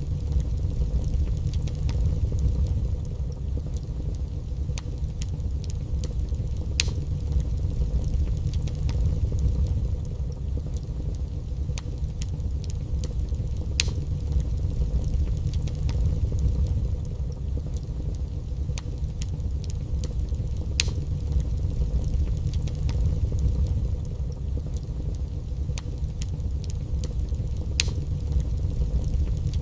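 Wood fire burning in a fireplace: a steady low rumble of flame with scattered crackles and occasional sharper pops.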